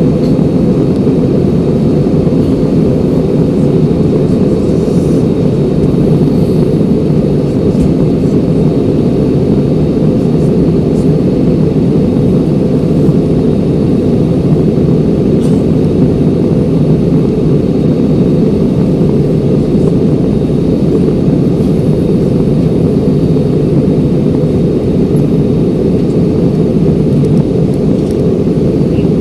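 Steady cabin noise of a jet airliner in flight: a low, even rush of engine and airflow sound.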